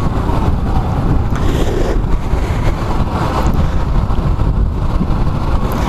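Wind buffeting the microphone on a moving motorcycle, a loud steady low rumble with road and engine noise mixed in.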